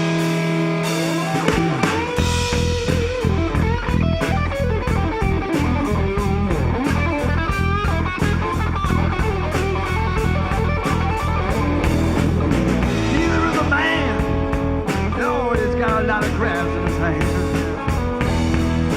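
Rock band playing an instrumental passage: electric guitar lead with bent notes over bass guitar and a steady drum beat.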